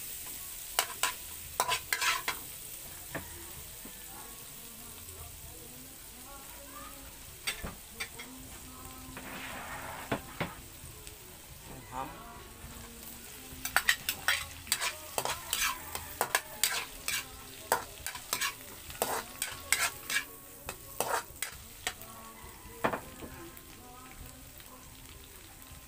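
Onion and garlic sizzling in butter in a wok, with a metal spatula scraping and clinking against the pan in bursts. The spatula strokes come near the start and again, thick and fast, through the second half, once diced ham has gone in.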